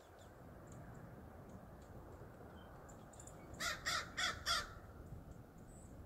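Four harsh bird calls in quick succession about three and a half seconds in, over a steady low outdoor rumble.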